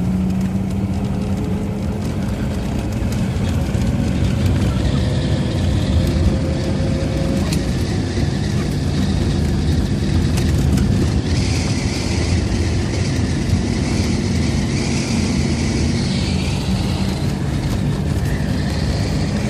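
VAZ classic (Zhiguli) car engine running steadily under load while driving through deep snow, heard from inside the cabin with road and tyre noise. A higher hiss rises from about halfway in.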